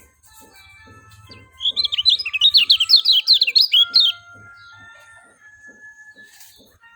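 Kecial kuning (lemon-bellied white-eye) singing a fast run of high, rapid chirping notes for about two and a half seconds, starting about a second and a half in. Faint background music with a steady beat plays under it.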